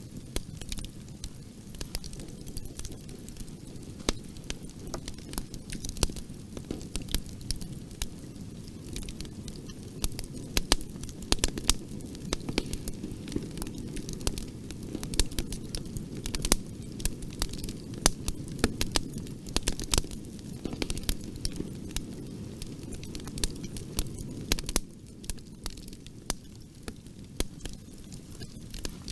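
Wood fire in a fireplace crackling, with many sharp, irregular pops over a low steady rumble of the flames. It gets a little quieter near the end.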